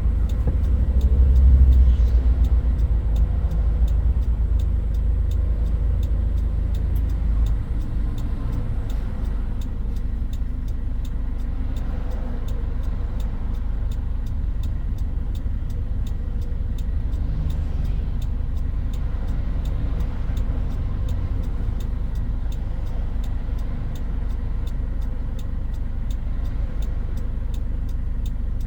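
Toyota Hilux Mighty-X pickup's engine running on the road, loudest in the first couple of seconds, then easing off about seven seconds in to a steady, lower running sound.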